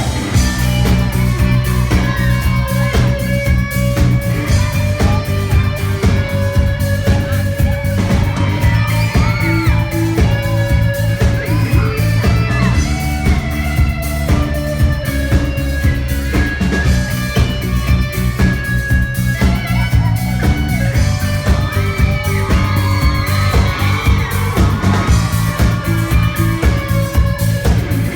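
Live pop-rock band music with guitar and a steady beat, played loud.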